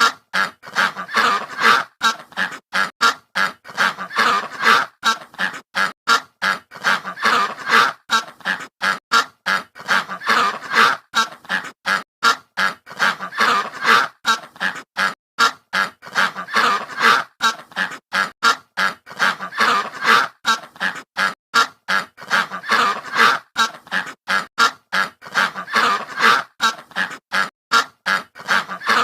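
A flock of waterfowl calling in a dense, continuous chorus of short honking calls, several a second and overlapping. It starts abruptly.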